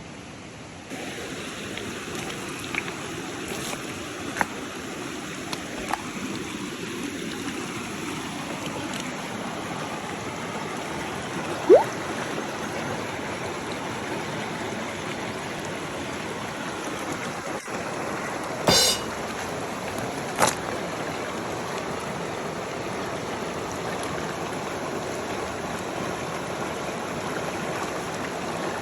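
Steady rushing of a river flowing by, with a few short sharp clicks and pops over it.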